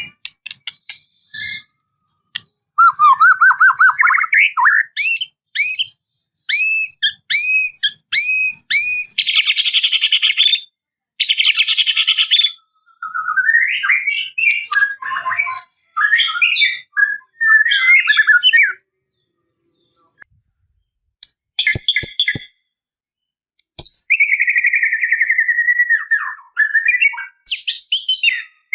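White-rumped shama singing a varied song of whistled phrases, rapid repeated notes, trills and buzzy rattles, broken by short pauses, with mimicked phrases of other birds woven in. A few sharp clicks come about two-thirds of the way through.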